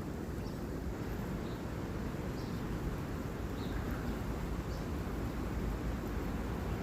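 Wind blowing across the microphone, a steady low rumble, with faint short bird chirps about once a second.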